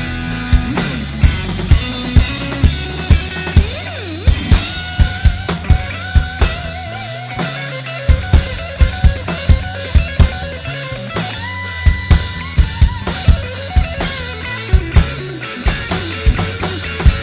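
Live band playing an instrumental passage: drum kit with a steady kick-and-snare beat, deep bass, and held melody notes, some of them bending in pitch.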